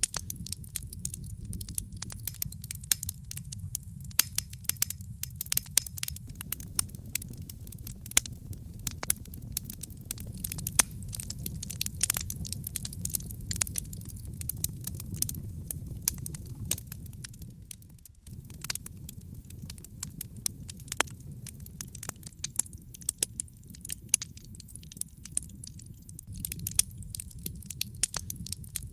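Wood fire in a fireplace crackling, with frequent irregular sharp pops and snaps over a steady low rumble of burning. The sound briefly drops away about two-thirds of the way through, then carries on.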